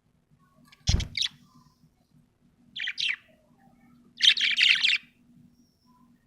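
Budgerigar chirping in short bursts: a quick pair of chirps about a second in, with a thump at the same moment, another pair near three seconds, and a half-second run of rapid chatter just after four seconds.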